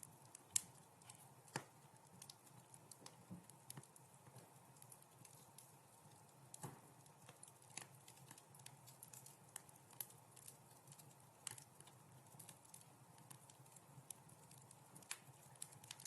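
Wood fire crackling in a fireplace: irregular snaps and pops, several a second, over a faint low hiss of burning, with the sharpest pop about half a second in.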